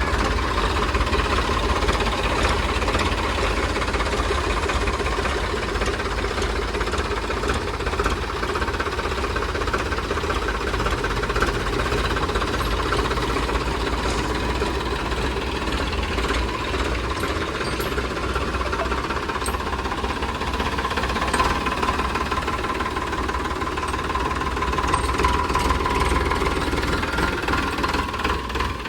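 Diesel engines of a JCB 3DX backhoe loader and tractors running steadily under load, with a continuous low rumble and a steady whine.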